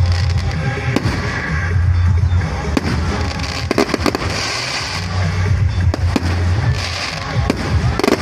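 Fireworks going off: scattered sharp bangs and crackling, over music with a heavy bass.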